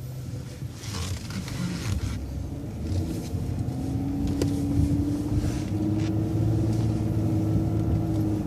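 City transit bus engine and drivetrain pulling away from a stop sign, heard from inside the bus: a low rumble joined by a whine that slowly rises in pitch as the bus speeds up. A short hiss comes about a second in.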